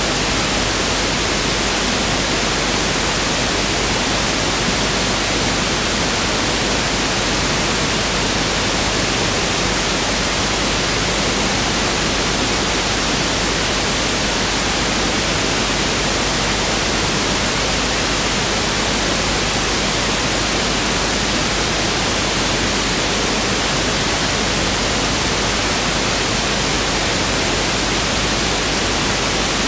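Pink noise test signal (1/f noise): a steady, even hiss, unchanging in level.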